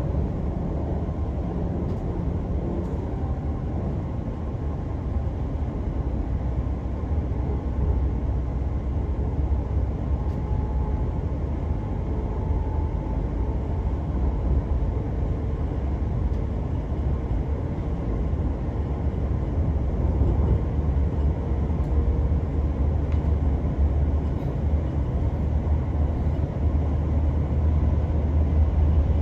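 Passenger train running at speed, heard inside the carriage: a steady low rumble of wheels on track with a faint whine, growing gradually louder over the second half.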